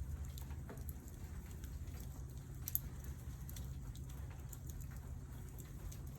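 Campfire crackling, with scattered small pops and one louder pop a little under halfway through, over a steady low rumble.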